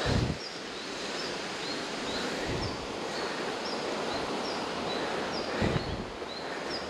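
Outdoor ambience with a steady rushing background and a small bird repeating a short high chirp about twice a second. A few low bumps of wind or handling on the microphone come through.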